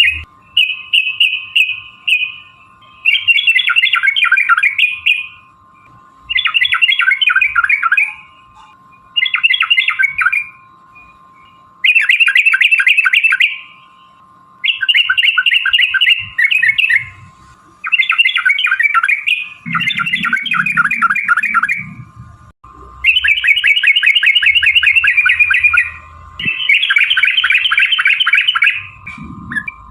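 Yellow-vented bulbul (trucukan) singing in rapid, rolling chattered phrases. About ten bouts of one to three seconds each follow one another with short pauses between.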